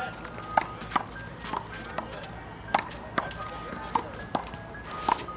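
Rubber handball being slapped by hands and hitting the wall and concrete court in a rally: about ten sharp smacks at an uneven pace, roughly two a second.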